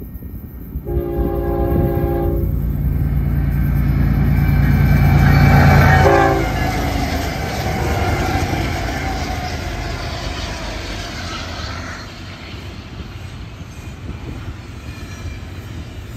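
A string of Union Pacific diesel freight locomotives passes while working hard. The lead unit sounds its multi-tone horn in a chord of about a second and a half, then a short blast about six seconds in, over engine noise that grows loudest as the locomotives go by. The steady rumble and rattle of double-stack container cars rolling past follows and slowly fades.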